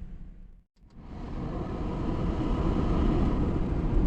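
Vehicle cabin noise as it drives: a steady low rumble that builds up over a couple of seconds, following a brief dropout to silence under a second in.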